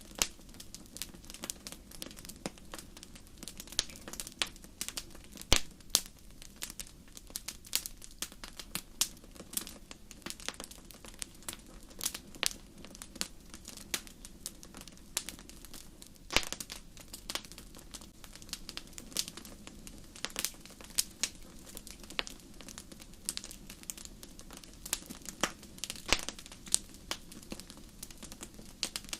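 Wood fire burning in a fireplace, crackling steadily with irregular sharp pops over a low hiss, a few of them louder.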